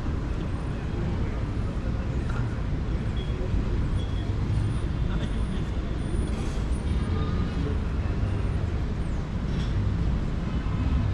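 City street traffic: a steady low rumble of vehicles on the road, with faint voices in the background.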